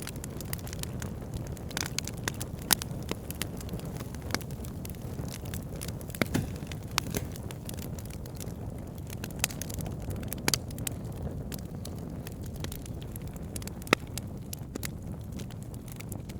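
Wood fire burning: burning logs crackling and popping irregularly over a steady low rumble of flame, with a few sharper, louder pops scattered through.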